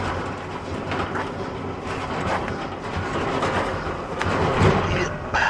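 Cargo van on the move: steady low road rumble with rattling and knocking from the van body and cargo area.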